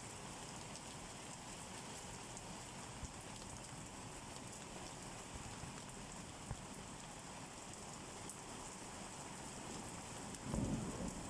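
Steady rain falling, with a few faint drop clicks. A brief low rumble comes near the end.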